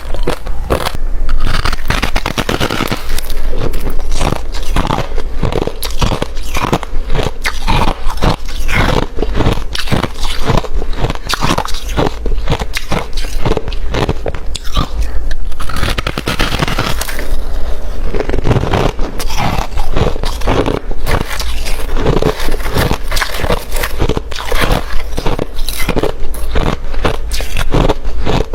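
A person biting and chewing hard refrozen crushed ice close to the microphone, with rapid, continuous loud crunches.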